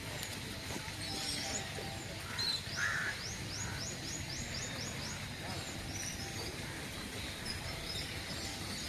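Outdoor bird calls: a rapid run of about eight short, high, rising whistled notes a few seconds in, over a steady low background rumble.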